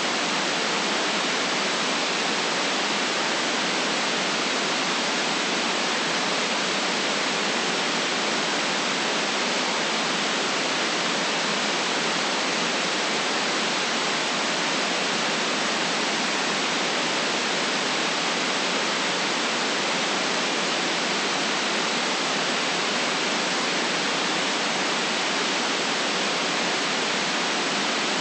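Steady, even white noise hiss with no bass and no change in level.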